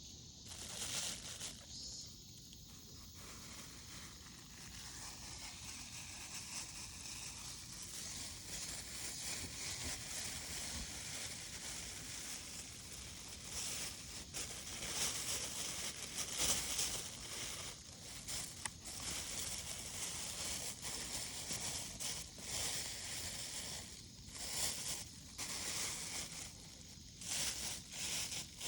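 Irregular rustling and crinkling in bursts, over a steady high chirring of insects.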